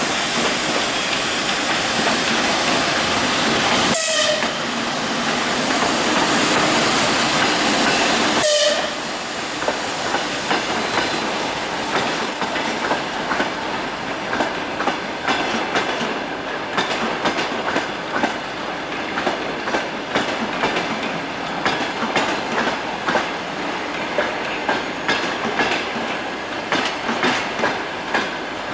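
TEP70 diesel passenger locomotive running past at arrival speed, with two short sharp sounds about four seconds apart. Then its passenger coaches roll by with a steady clickety-clack of wheels over rail joints.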